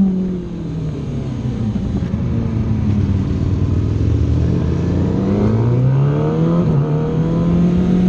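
Aprilia Tuono motorcycle engine heard onboard: engine speed low and falling at first, then rising steadily in a long climb about halfway through, levelling off near the end, with a steady rush of wind noise beneath.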